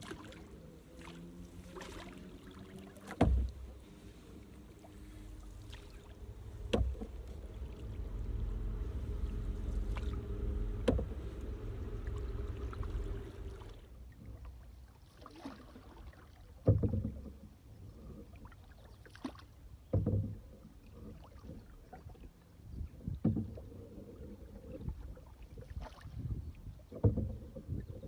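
Canoe being paddled: a sharp knock of the paddle about every three to four seconds, each followed by a brief swirl of water, with a low rumble for several seconds in the middle.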